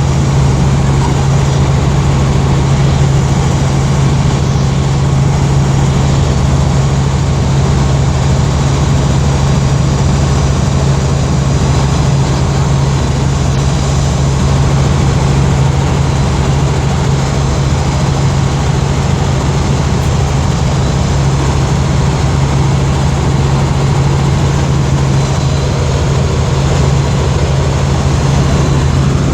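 Helicopter running steadily: a loud, unchanging engine and rotor drone with a strong low hum.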